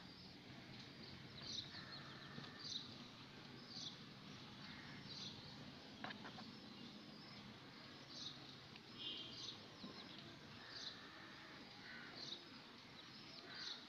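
A bird chirping faintly in the background: a short, high chirp repeated over and over, roughly once every second or so, over low steady room noise.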